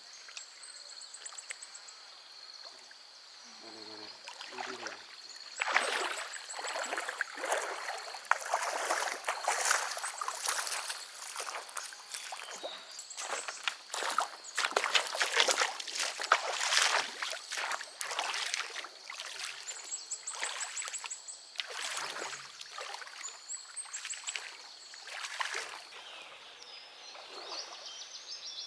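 Pond water sloshing and splashing in irregular bursts, as a person moves and works in shallow water, loudest through the middle of the stretch.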